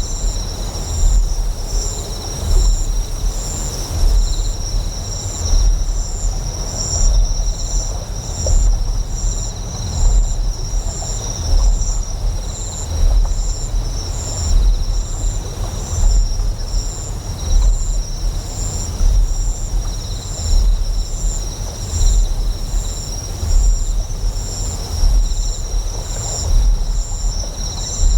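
Deep generator hum that swells and fades about every second and a half, with a steady high chirping of insects over it.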